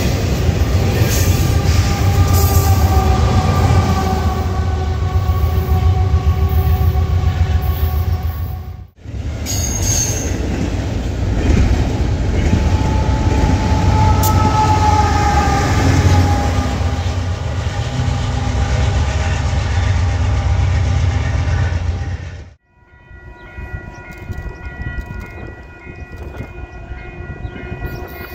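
Freight trains passing close by: double-stack intermodal cars rolling with a deep steady rumble, and the rear GE diesel locomotive (distributed power unit) running as it goes by. The sound cuts off abruptly about nine seconds in and again about two-thirds of the way through. In the last few seconds a more distant approaching freight train sounds its multi-chime air horn, several steady notes at once.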